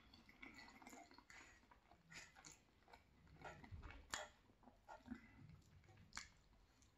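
Close-miked chewing of cheesy penne pasta, soft and wet, with a few sharp clicks from the metal fork against the nonstick frying pan, the loudest about four seconds in.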